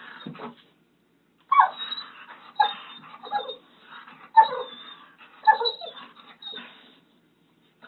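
A dog vocalizing: about six short calls roughly a second apart.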